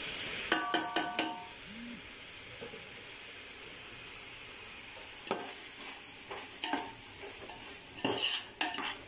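Chicken and ground spice masala frying in a metal pot with a steady sizzle, while a metal spoon stirs it, clinking and scraping against the pot. A few ringing clinks come about a second in, and more knocks near the end.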